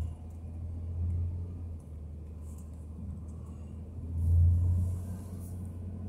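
Low rumble of a car driving, swelling briefly about a second in and more loudly just after four seconds.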